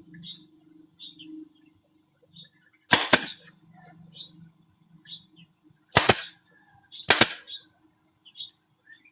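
Three sharp bangs from nails being driven into wood for a bird box, each a quick double strike, about 3, 6 and 7 seconds in. Faint short high chirps sound between them.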